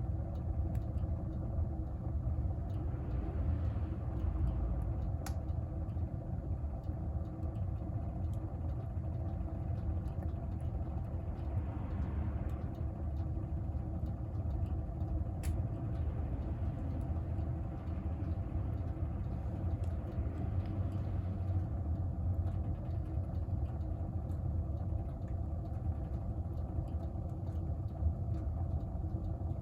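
Wood-burning stove fire with a steady low rumble of the draft. A couple of sharp crackles of burning wood come about five and fifteen seconds in.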